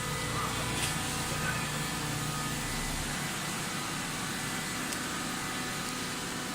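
Automatic hydraulic baling machine running with a steady mechanical hum. A deep low drone under it stops about three seconds in.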